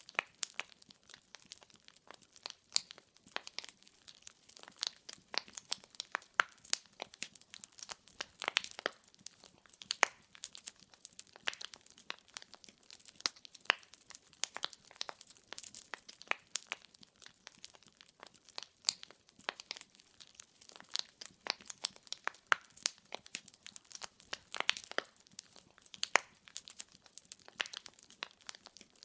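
Firewood crackling as it burns in a fireplace: irregular sharp pops and snaps, several a second, over a faint hiss of the fire.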